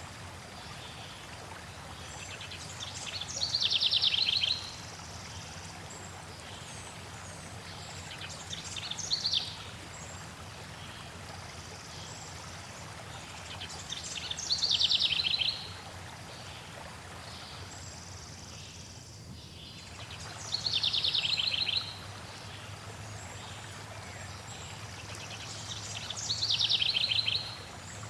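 A songbird repeating a short, high, trilled phrase that falls in pitch, five times about every five to six seconds, over a steady rush of flowing water.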